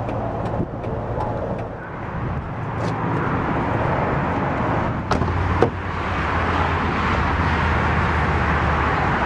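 Ford 5.4-litre Triton V8 idling steadily under a hiss of outdoor noise, with two sharp clicks about five seconds in.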